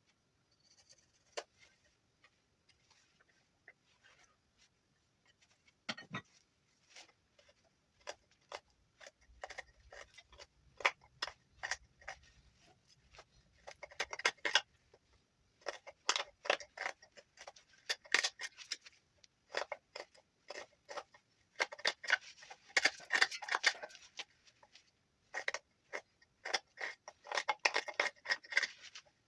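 Knife whittling juniper wood: a run of short scraping cuts, sparse and scattered at first, then coming in quick dense clusters from about halfway through.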